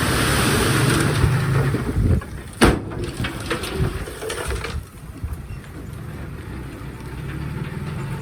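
Komatsu D51PX bulldozer's diesel engine running, louder for the first couple of seconds, with a sharp clank about two and a half seconds in and a few lighter knocks after it; then the engine runs more quietly.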